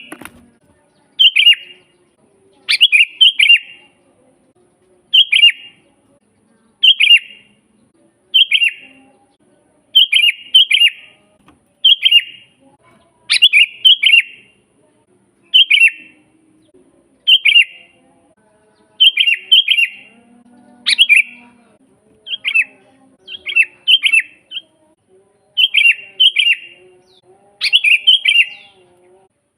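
Sooty-headed bulbul (kutilang) singing steadily and loudly. Short, bubbly phrases of one to three notes repeat about every second and a half.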